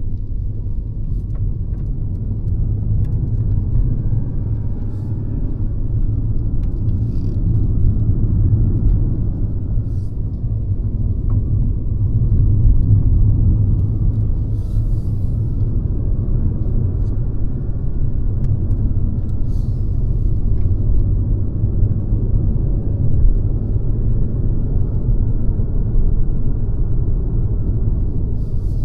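Mercedes-Benz C-Class (W206) under way: a steady low rumble of engine and road noise, swelling slightly now and then.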